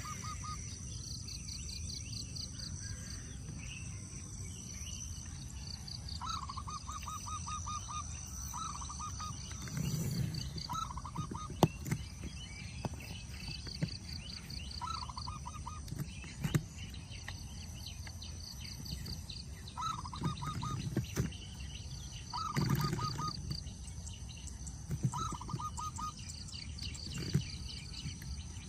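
Birds calling in short, rapid trills repeated every few seconds over a steady high insect drone, with a few sharp clicks.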